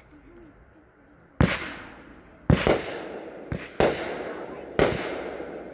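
A 32-shot consumer firework cake firing: five sharp bangs at about one a second, beginning about a second and a half in, one of them softer, each followed by a fading tail.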